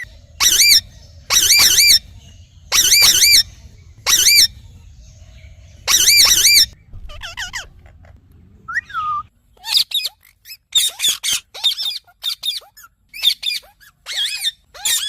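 Indian ringneck parakeet calling loudly: five long, wavering screeches in the first seven seconds, then a quick run of short squawks.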